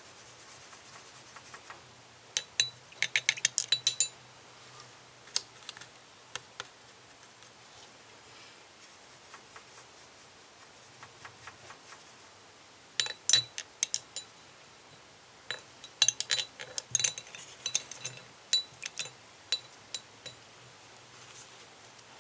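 Runs of quick, light clicks and clinks of small hard objects, in three groups with faint hiss between them.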